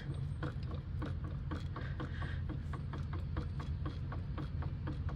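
Irregular light clicks and knocks, a few a second, of hands and tools working the belt tensioner on a Bobcat MT100 engine, over a steady low hum.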